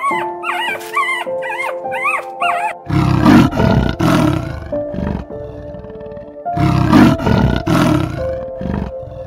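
A large animal roaring twice, each roar about two seconds long and the loudest sound here, over steady background music. Before the first roar come short, high yelps that glide up and down, like a dog whimpering.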